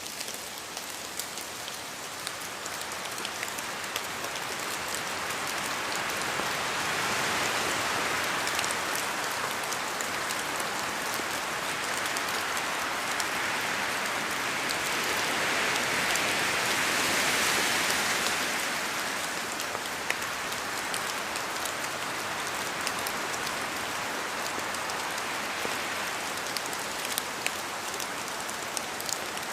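Steady rain, with many small sharp drop ticks; it swells louder for several seconds in the middle and eases off again.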